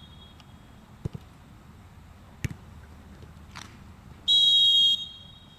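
A referee's whistle blown once near the end in a single steady blast of under a second. Two short dull thumps come earlier, about a second and a half apart.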